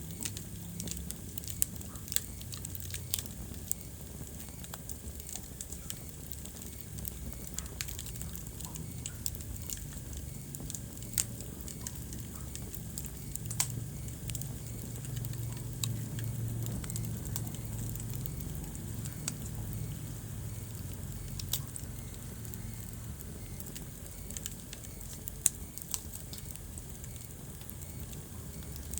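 Wood fire crackling in a fireplace: irregular sharp pops every few seconds over a steady low rumble of the flames.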